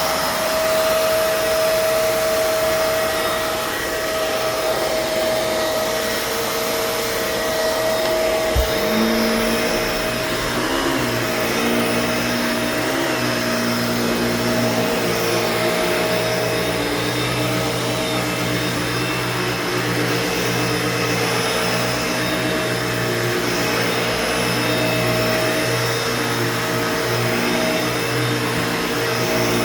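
Bissell Pet Hair Eraser Turbo upright vacuum cleaner running with a steady whine. About nine seconds in there is a sharp click, after which a lower, wavering tone joins: the whistly grinding noise that comes and goes on this machine.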